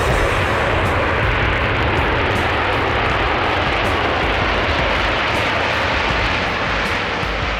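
Aircraft engines running, a loud, steady, even noise.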